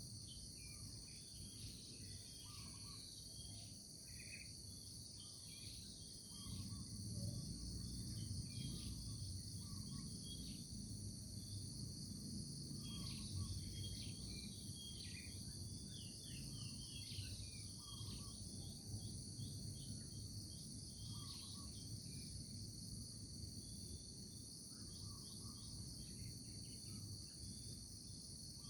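Steady, high-pitched chorus of insects, with scattered short bird chirps over it and a low rumble underneath that grows louder about six seconds in.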